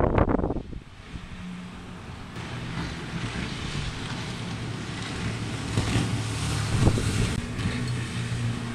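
A rigid inflatable boat's engine running under way, with wind buffeting the microphone. A loud rush of noise in the first half second gives way to a steady engine hum that slowly grows louder.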